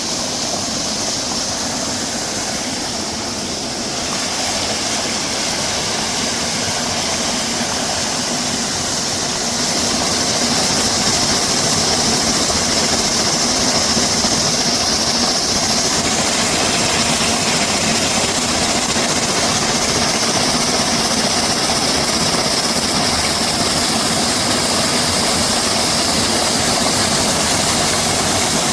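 Mountain stream water rushing steadily over rocks, a little louder from about nine seconds in.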